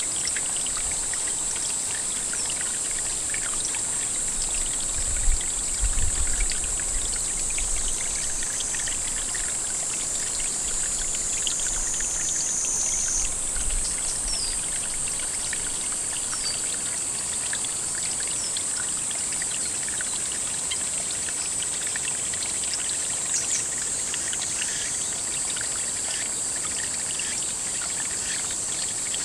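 Steady trickling water at a pond, with a constant high-pitched insect chorus over it. A few low bumps come about five to seven seconds in.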